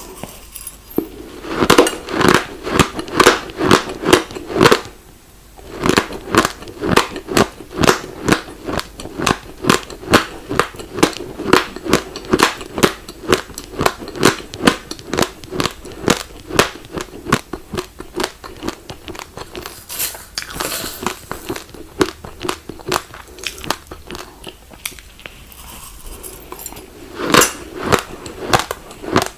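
Raw glutinous rice grains crunched between the teeth while chewing: a rapid run of sharp crunches, about three to four a second, with a short pause about five seconds in.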